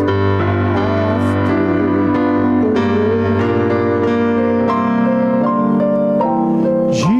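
Keyboard playing slow, held chords, with notes changing about once a second.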